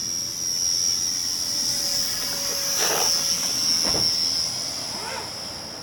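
Remote-control model airplane's motor and propeller running with a steady high-pitched whine that fades a little near the end.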